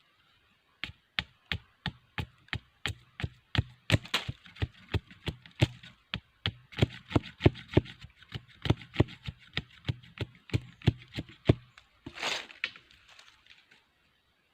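A blade chopping wood in steady strokes, about three a second, stopping near the end. A brief rustling crackle follows, then a few faint ticks.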